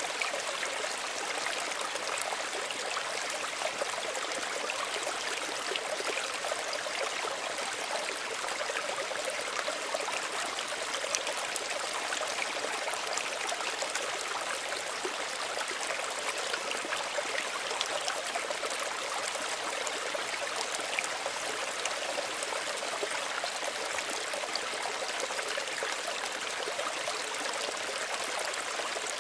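Small stream running steadily, water trickling and splashing over stones with a constant, even rush.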